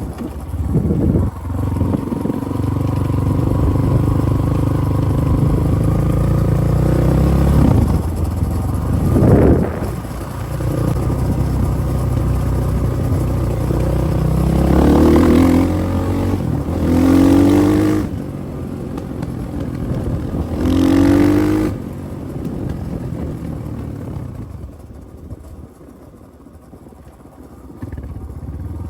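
Spark SP250P-2 motorcycle engine running, its pitch rising and falling with the throttle. A quick rev comes about nine seconds in and several loud revs follow in the middle, then the engine drops quieter near the end.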